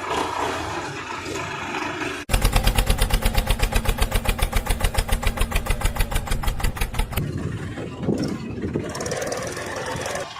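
Tractor diesel engine running. About two seconds in the sound cuts abruptly to a loud, even, rapid exhaust beat of about nine pulses a second that lasts about five seconds, then goes back to a rougher engine noise.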